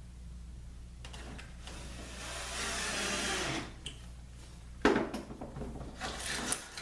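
Cordless drill/driver whirring for about two seconds as it drives a screw into the back hole of a metal drawer slide, then a sharp knock about five seconds in and some light rattling as parts are handled.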